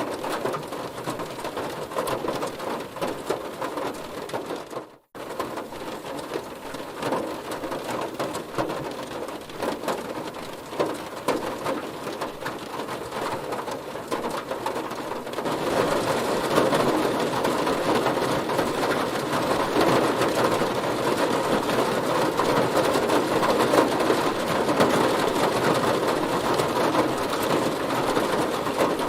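Heavy rain pattering densely on a car. It cuts out for an instant about five seconds in, then comes back and grows heavier about halfway through.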